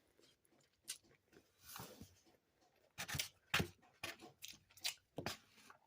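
Faint close-up eating sounds: chewing, with a string of short clicks and crisp snaps at irregular spacing.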